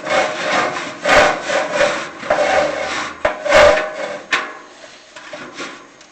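Chimney inspection camera scraping and rubbing against the inside of a prefab metal flue as it is pushed down, in uneven strokes that die down about four and a half seconds in.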